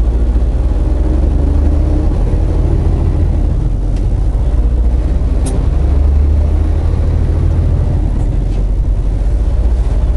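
Semi truck's diesel engine running steadily under way with road rumble, heard from inside the cab.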